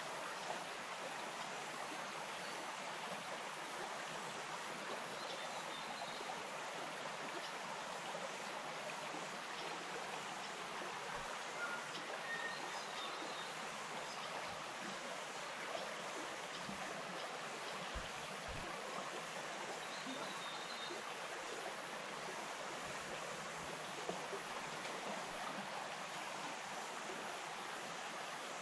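Small bush stream flowing over stones, a steady, even rush of running water.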